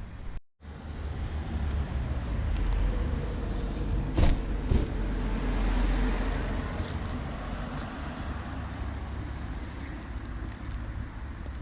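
A motor vehicle's low rumble swells and then eases off, like a vehicle passing, with a sharp knock about four seconds in.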